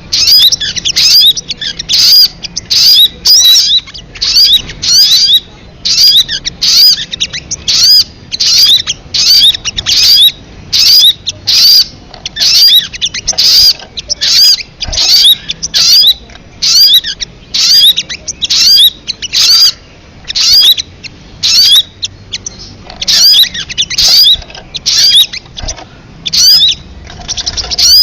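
Recorded song of a sogon bird: loud, rapid, chattering call phrases of quick rising and falling high notes, repeated about twice a second without a break.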